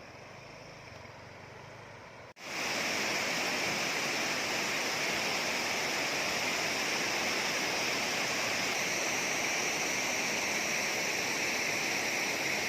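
Water rushing steadily over an irrigation dam, a loud even wash of falling water. It starts suddenly about two seconds in, after a short stretch of faint outdoor ambience.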